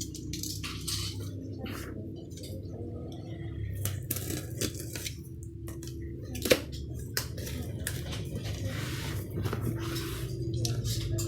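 Hot Wheels case packaging being handled: cardboard and plastic blister packs rustling and clicking, with one sharp click about six and a half seconds in, over a steady low hum.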